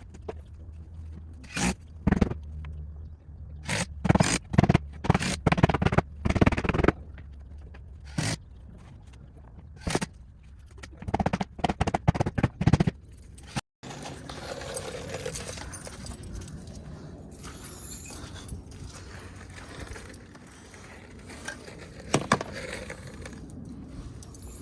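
Irregular knocks and scrapes of wooden fence boards being handled and pushed into place, busiest in the first half. After a sudden break about halfway through, only a quieter steady background is left, with a couple of sharp clicks near the end.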